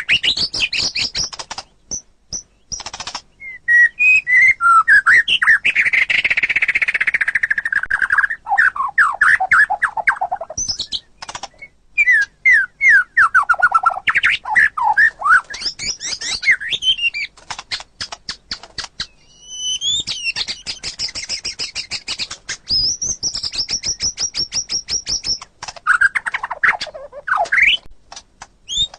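White-rumped shama (murai batu) singing a long, varied song: rapid rattling trills, runs of quick falling slurred notes, and a held high whistle about two thirds of the way through, broken by short pauses.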